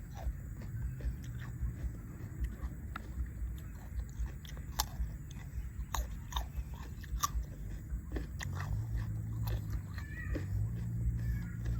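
A person chewing and biting food close to the microphone, with scattered sharp crunches a few times a second, as when eating spicy seafood salad with crisp raw vegetables.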